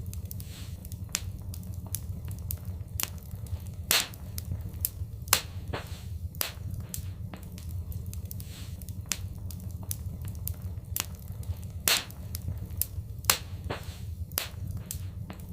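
Wood fire crackling in a fireplace: irregular sharp pops and snaps, several of them louder than the rest, over a steady low rumble.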